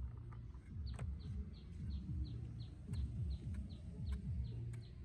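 A bird repeating a short falling call about three to four times a second, starting about a second in, over a low rumble and a few scattered sharp clicks.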